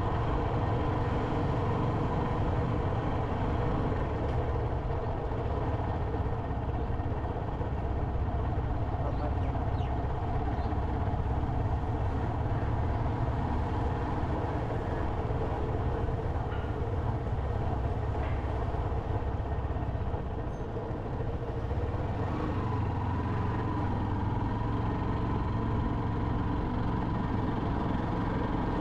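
Motorcycle engine running steadily while riding, with a continuous low rumble. The level dips briefly about two-thirds of the way through.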